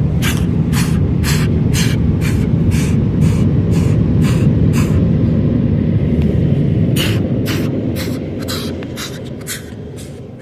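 Car wash tunnel equipment heard from inside the car: a loud, steady rumble with rhythmic spraying or slapping whooshes about two to three times a second. The whooshes pause briefly in the middle, and the whole sound fades toward the end as the car moves out.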